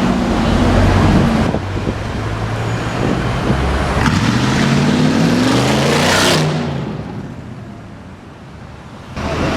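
A car engine revving up under hard acceleration, its pitch climbing for about two seconds before it breaks off sharply. The sound then dies away, and loud traffic cuts back in near the end.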